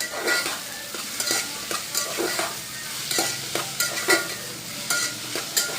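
Food frying in oil in a cooking pan, sizzling, while a utensil stirs it, scraping against the pan in repeated strokes about twice a second.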